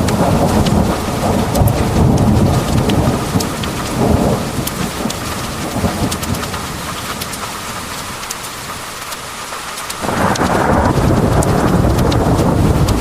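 Heavy thunderstorm: steady pouring rain with sharp individual drop ticks, under rolling thunder. The thunder rumble fades out through the middle, then a fresh loud peal starts suddenly about ten seconds in.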